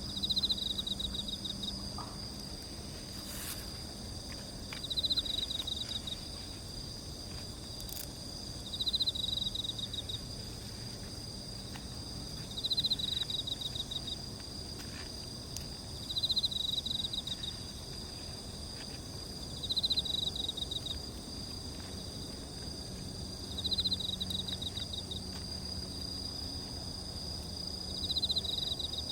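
Insects calling: a steady high-pitched drone from a chorus of insects, with one insect's pulsed trill repeating about every four seconds, each trill lasting about a second. A few faint clicks come through now and then.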